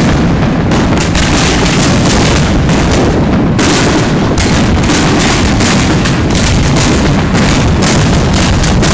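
Fireworks display: a dense, unbroken barrage of bangs and crackles from aerial shells bursting overhead.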